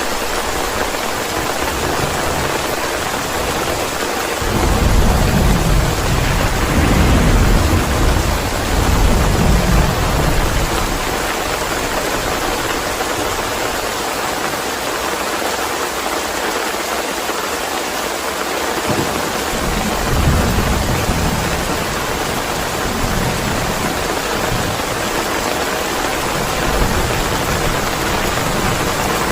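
Steady heavy rain hissing, with thunder rolling in about four seconds in and rumbling for several seconds. Fainter rumbles of thunder follow twice later on.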